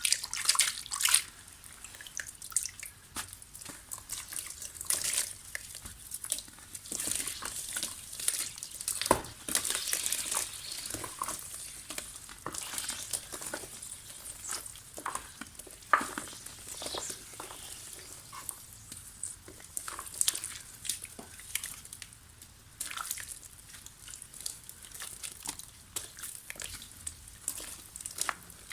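Soft mud texture crumbling: an irregular run of crisp crackles and small crunches, with a few sharper snaps.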